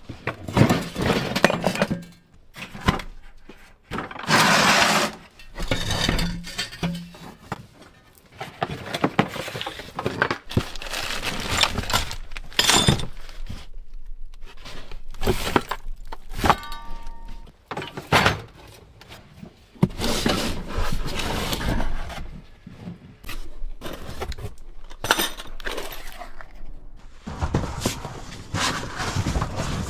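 Hands-on work on a car: a busy run of knocks, scrapes and clatter, with a loud burst of rushing noise about four seconds in.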